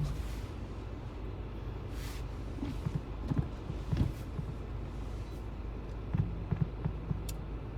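Steady low road and engine rumble heard inside a car driving on snowy roads, with a few short knocks and thumps around the middle and again about six seconds in.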